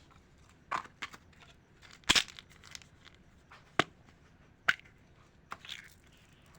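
Candy wrappers being handled and torn open: about six short crinkles and rips, the loudest about two seconds in.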